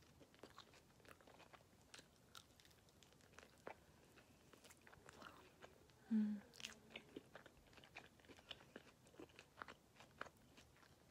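Faint close-up chewing: soft, quick mouth clicks and smacks of someone eating, with a brief low hum from the eater about six seconds in.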